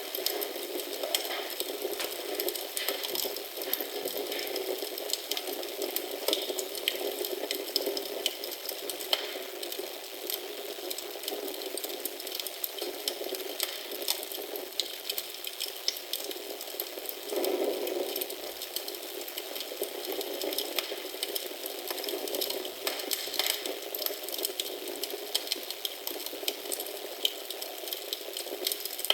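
Wood fire in a fireplace crackling steadily: many small pops and snaps over a soft hiss, with a brief louder rush a little past the middle.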